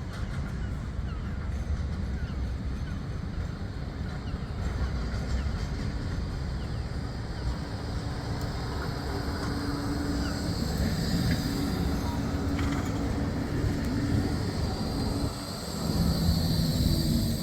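Bombardier Flexity 2 light-rail tram coming in, its electric drive giving a steady hum over a low rumble; the hum drops to a lower pitch near the end.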